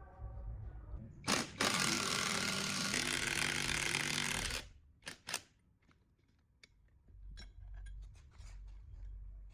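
A power tool is blipped briefly, then runs for about three seconds and cuts off. A couple of sharp clicks and a few light taps follow.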